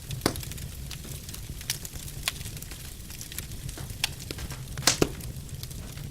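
Wood fire burning in a fireplace: the flames give a steady low rumble, and the logs crackle with irregular sharp pops. The loudest pops come in a quick pair about five seconds in.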